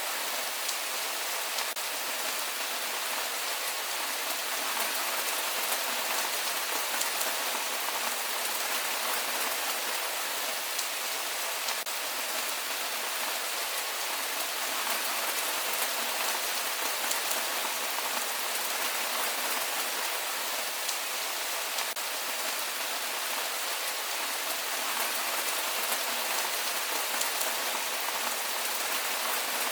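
Heavy rain falling steadily: an even hiss of rain on surfaces, with faint ticks of individual drops.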